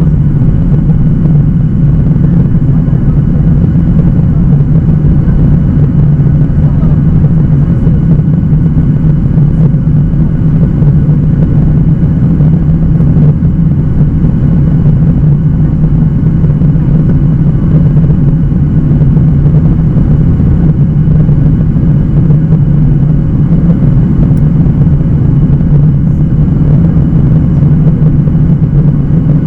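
Steady cabin noise inside a Boeing 737-800: a loud, even, low drone from its CFM56-7B engines.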